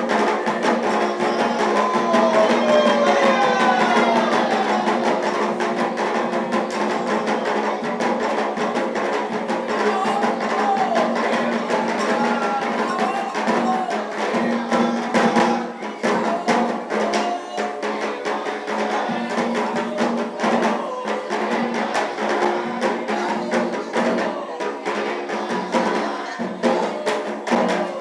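Afro-Brazilian ritual drumming, with hand drums and a wooden or bell-like percussion keeping a fast, steady rhythm, and voices singing over it.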